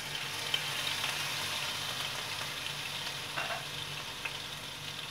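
Ginger-garlic paste sizzling steadily in hot oil with cumin seeds and whole spices in a non-stick kadai, stirred with a spatula, with a few faint clicks near the end.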